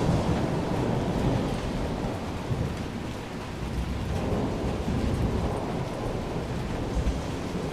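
Heavy rain falling steadily under a low rolling rumble of thunder that slowly dies away.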